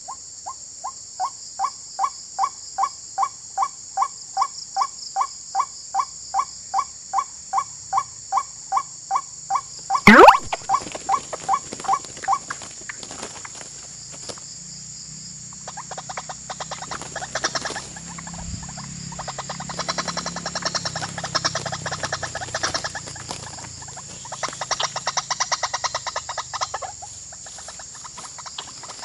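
White-breasted waterhen (ruak-ruak) calling: a steady run of repeated calls, about two and a half a second, for roughly twelve seconds. About ten seconds in there is a very loud, sudden rising sound. From about sixteen seconds the calling turns into fast, chattering bursts, over a steady high chirring of insects.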